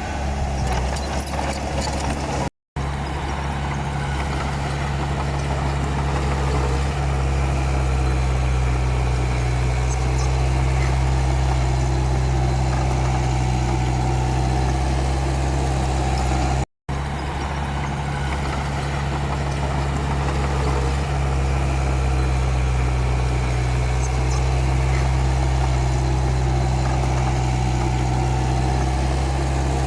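Komatsu D31P bulldozer's diesel engine running at a steady speed, a continuous low drone, with the sound dropping out for an instant twice.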